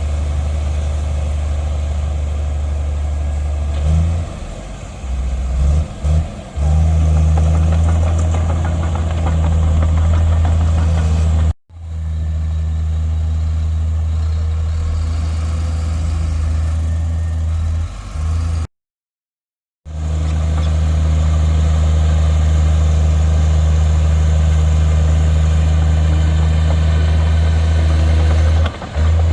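Heavy diesel engine of earthmoving machinery running steadily under load, a deep low drone. It cuts out briefly twice, once for about a second.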